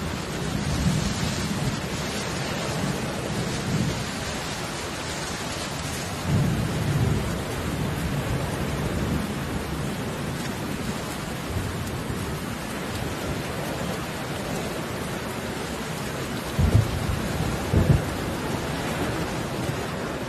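Steady hiss of rain with low rumbles underneath, louder about six to seven seconds in. Near the end come two sharp low thumps a little over a second apart.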